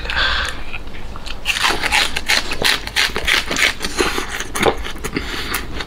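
Close-miked eating of braised pork large intestine: chewing and lip-smacking, with many short wet clicks from about a second and a half in.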